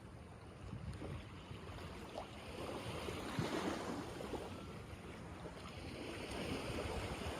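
Sea waves washing in and receding, with wind on the microphone; the noise swells twice, about halfway through and near the end.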